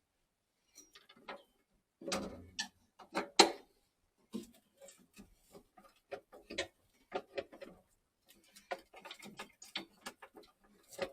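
Irregular clicks, knocks and light scraping of tools and boiler parts being handled and fitted, in uneven clusters with short pauses; the loudest knocks come a little after two and three seconds in.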